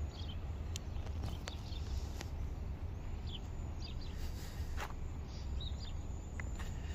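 Outdoor ambience: scattered short bird chirps over a steady low rumble of wind on the microphone.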